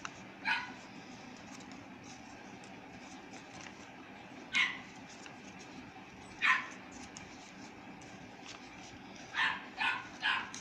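A dog barking: six short barks, spread out at first, then three in quick succession near the end.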